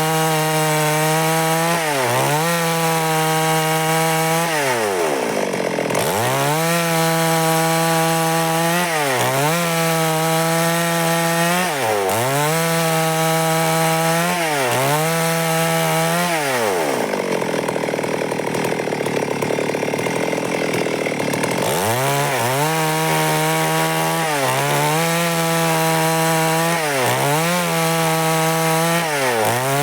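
Stihl MS 382 two-stroke chainsaw ripping through wood at high revs, its engine note dipping and recovering every second or two as it bogs under load. For a few seconds past the middle the note blurs into a rougher, lower sound.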